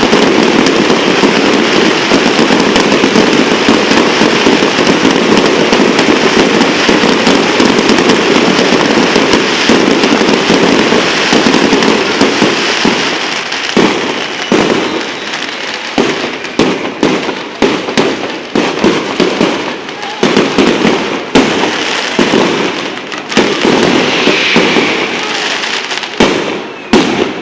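Fireworks going off: a dense, continuous crackle of many small bangs for roughly the first half, thinning out into separate sharp bangs with gaps between them toward the end.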